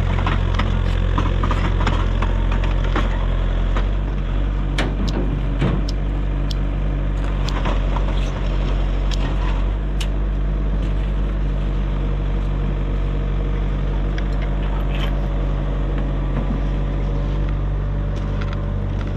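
Excavator's diesel engine running steadily; its low note drops and eases about four seconds in. Scattered metallic clicks and knocks come over it for the next several seconds.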